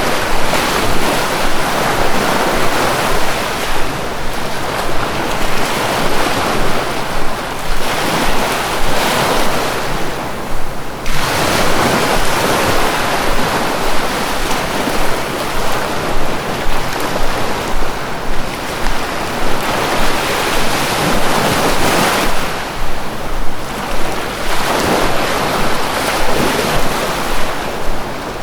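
Sea waves breaking and washing in, a continuous rush of surf that swells and eases every few seconds.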